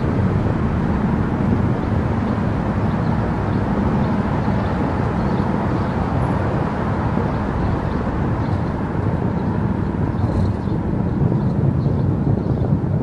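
Car cruising at highway speed: a steady rush of tyre and road noise with a low rumble.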